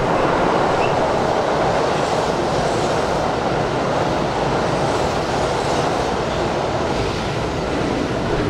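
Sanyo Electric Railway train passing through the station at speed without stopping: a steady loud noise of wheels running on the rails as the cars go by, loudest in the first second or two.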